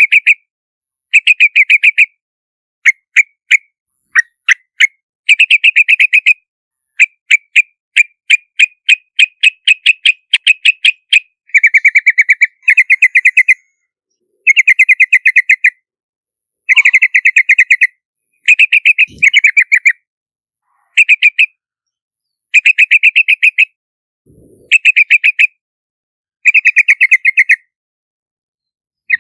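Yellow-vented bulbul calling: bursts of rapid, bubbly chattering notes, each burst about half a second to a second and a half long, with a longer run of quick notes partway through, separated by short gaps of dead silence.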